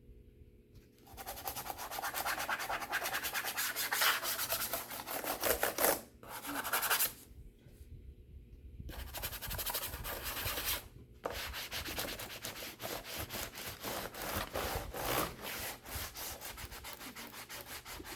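Fast, repeated rubbing strokes on the HP 255 G4 laptop's plastic case as sticky residue is worked off, pausing briefly about six and eleven seconds in.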